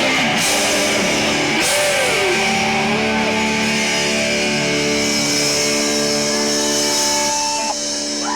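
Live rock band with distorted electric guitars holding sustained chords, with sliding, bending notes and cymbal crashes in the first couple of seconds, thinning out near the end as the song winds down.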